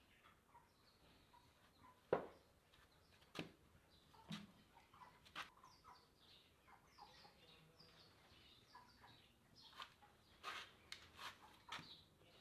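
Faint bird chirps scattered throughout, with several sharp clicks or knocks, the loudest about two seconds in.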